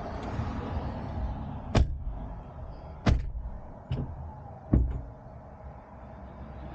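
Vehicle doors shutting: four sharp thumps over a few seconds, over a low steady rumble.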